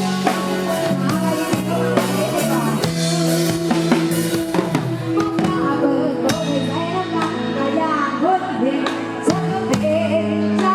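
Live band music with a steady drum-kit beat, held bass notes and a melody line.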